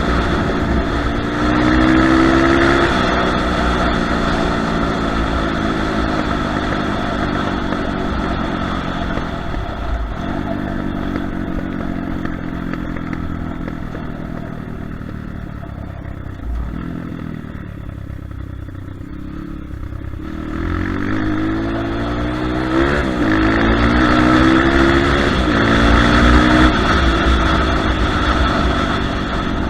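Kayo TT140 pit bike's single-cylinder four-stroke engine under riding, its revs repeatedly climbing and dropping back as it shifts through the gears. It fades quieter in the middle, then comes back with several sharp rises in pitch.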